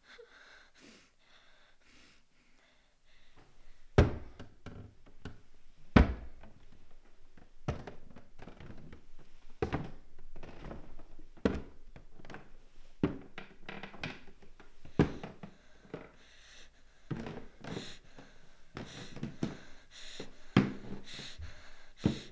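Slow, heavy footsteps climbing stairs, one loud thud about every two seconds, starting after a few seconds of near silence.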